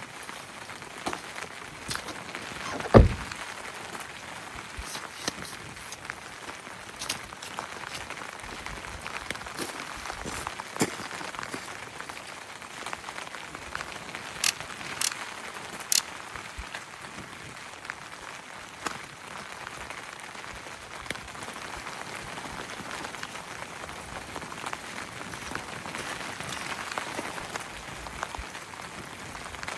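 Steady rain falling, with scattered louder drops and taps heard through it. About three seconds in there is a single sharp thump, the loudest sound.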